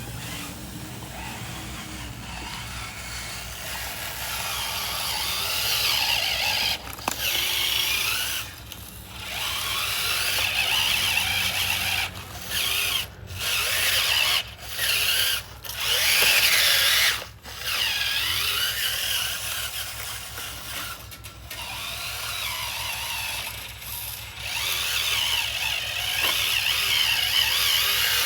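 Small electric motors and plastic gearboxes of radio-controlled construction models whining, wavering in pitch as they work. They run in stop-start spurts and cut off abruptly many times.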